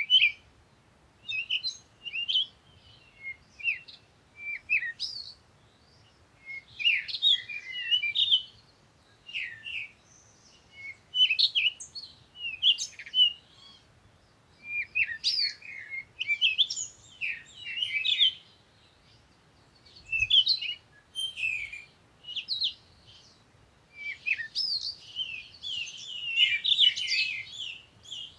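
Birds chirping: quick runs of short, high chirps and twitters with pauses of about a second between runs, busiest near the end.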